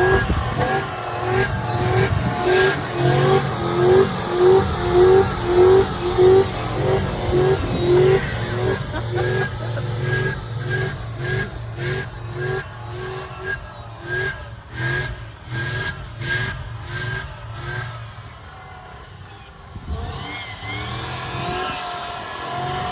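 5.3-litre LS V8 in a Chevrolet Trailblazer revving hard as the truck spins through sand, its pitch climbing and dropping about twice a second. Near the end it eases off, dips and then settles to a steadier note.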